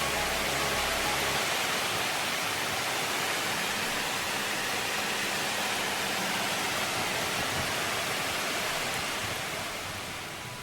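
Heavy typhoon rain pouring down in a steady, dense hiss that eases somewhat near the end.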